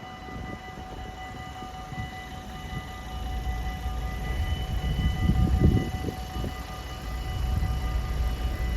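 Dutch level-crossing EBA warning bells ringing in a steady tone while the low rumble of an approaching Stadler GTW diesel train builds, swelling about halfway through and again near the end.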